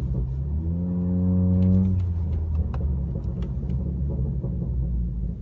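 Straight-through exhaust of a 2019 Honda Accord with the resonator and mufflers deleted, heard from inside the cabin: the engine drone climbs slightly for about a second and a half, then as the throttle lifts about two seconds in, a scatter of sharp exhaust pops comes through before it settles into a low rumble.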